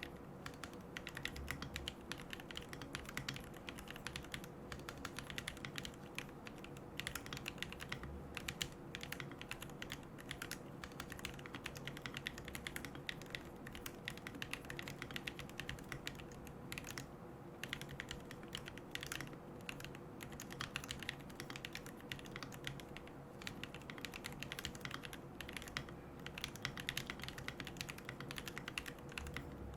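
Continuous fast typing on a mechanical keyboard with Gateron Moon Landing switches, carbon plate and no foam: a steady stream of key clicks and keycap clacks.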